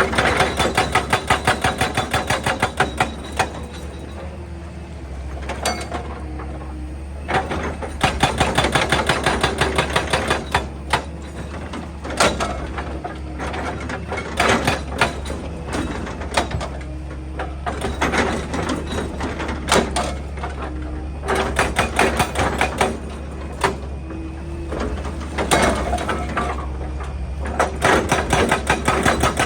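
Excavator diesel engine running steadily under bursts of rapid, rhythmic metallic hammering, each burst lasting a second or more, about eight times with quieter engine-only gaps between.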